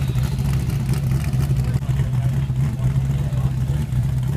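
A car engine running with a steady low drone.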